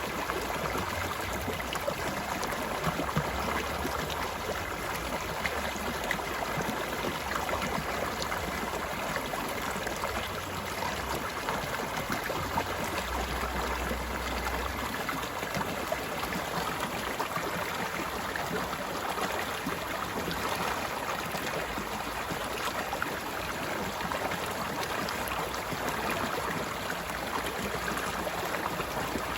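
Stream water flowing steadily, an even rushing and gurgling that does not change.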